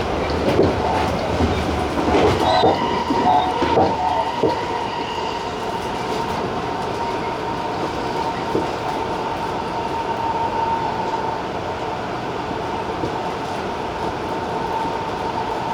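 Tobu 50090-series electric train running at speed, heard from the front of the train. For the first few seconds the wheels knock irregularly over rail joints or points. After that it settles into a steady rolling noise with a high held whine.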